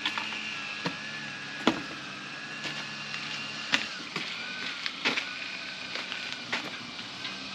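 Irregular sharp knocks and clicks of hand work as a pad is fitted onto a football tackling sled, the loudest about two and about four seconds in. Underneath is a steady high whine and a low hum.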